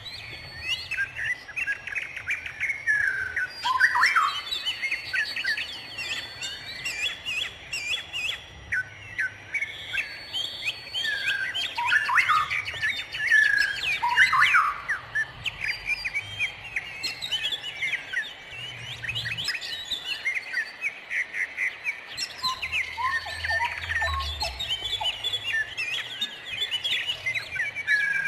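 Many wild birds singing at once: a dense chorus of overlapping chirps, whistles and quick trills.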